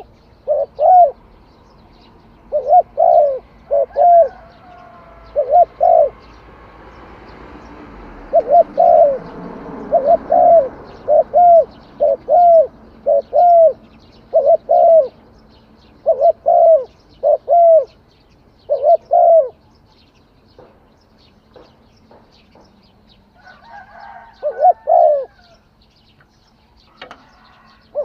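Dove cooing: a long run of short, clipped coo notes, mostly in quick pairs, with a pause about two-thirds of the way through before the calls resume.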